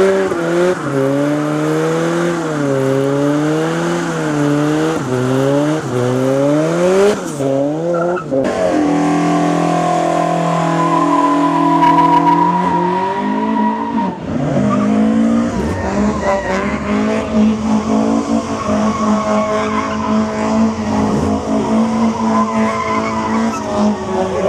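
Car engine revved over and over, its pitch rising and falling about once a second, then held at steady revs with slow changes in pitch for the rest of the time.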